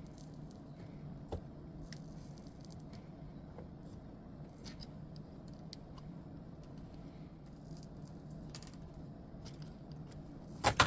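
Scattered light clicks and scrapes of small parts being handled and pried apart, with a sharp double knock near the end, over a steady low hum.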